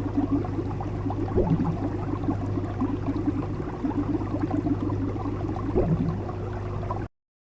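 Water bubbling and gurgling over a steady low hum, which stops abruptly near the end.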